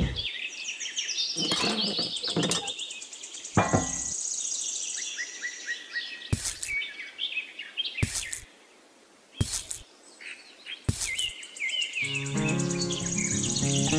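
Birds chirping and twittering, with several short sharp knocks spaced a second or two apart. Music with a steady beat comes in near the end.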